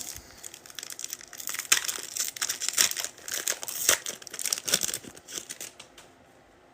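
Foil trading-card pack wrapper being torn open and crinkled by hand, a dense run of crackles that stops about six seconds in.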